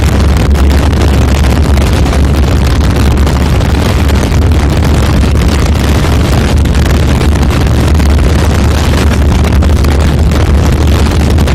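Yamaha FZS motorcycle's single-cylinder engine pulling steadily at speed, with heavy wind rushing over the microphone.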